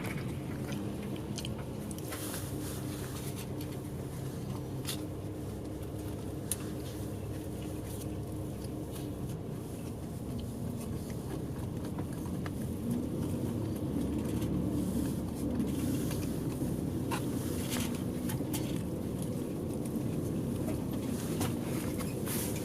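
Inside a moving bus: the engine hums steadily under road noise, its note shifting as the bus drives on, with scattered clicks and rattles from the cabin.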